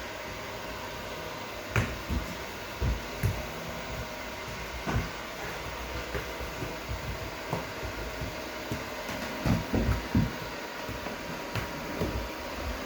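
Robot vacuum cleaner running with a steady whir and a faint whine, with irregular soft thumps and knocks scattered through.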